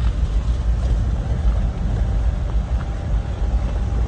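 Wind buffeting the microphone, a loud, unsteady low rumble that rises and falls irregularly.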